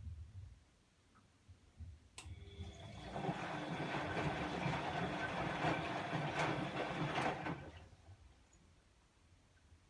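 Bosch washing machine's relay clicks, then the drum motor runs for about five seconds, tumbling the drum, and winds down to a stop.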